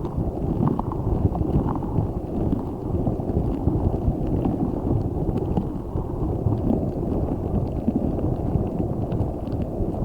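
A giant spiky orbeez stress ball squeezed and handled close to the microphone: a steady, dense squishing and rustling with small crackles.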